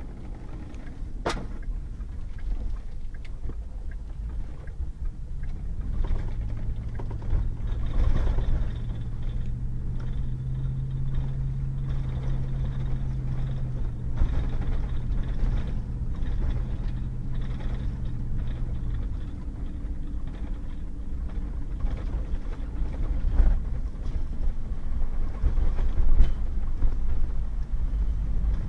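Pickup truck driving on a wet, muddy dirt road: steady low engine and tyre rumble, the engine note rising about six seconds in and settling back down later. A few sharp knocks from the truck jolting over the rough road.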